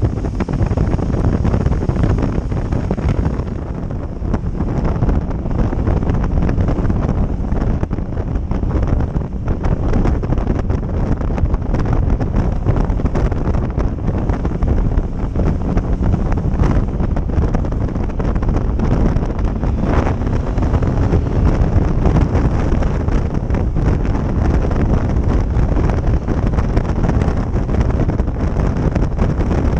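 Wind buffeting the microphone on a moving motorcycle, a steady loud rush, with the bike's engine running underneath.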